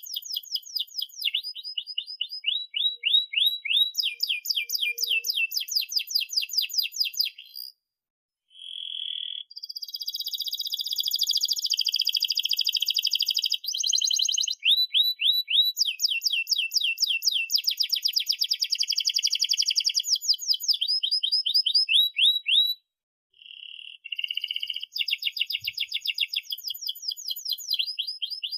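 Domestic canary singing a long, rolling song: fast series of repeated high sweeping notes and trills, changing from one trill to the next, with two brief pauses.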